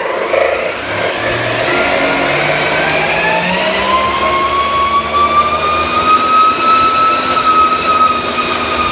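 3D-printed 400 mm electric ducted fan, driven through a gearbox, spooling up on a thrust stand: a loud whine that climbs in pitch for the first several seconds, then holds steady at high speed.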